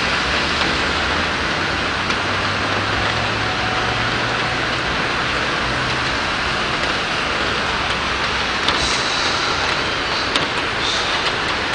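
Rain falling steadily on a city street, a continuous hiss, with a vehicle's engine running low underneath for the first half.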